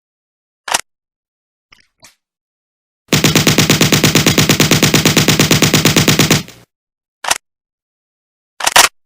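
Real firearm gunfire: a single shot, then a faint click or two, then a rapid burst of fully automatic fire lasting about three and a half seconds, followed by another single shot and a quick pair of shots near the end.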